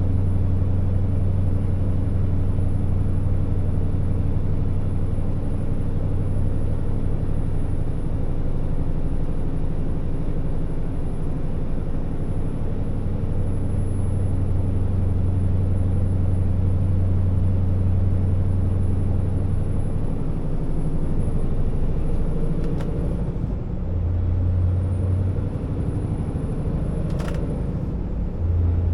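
Scania R650 timber truck's V8 diesel engine running as the heavily loaded truck drives, a steady low drone. The drone eases about twenty seconds in, with a click a couple of seconds later and a short sharp sound near the end.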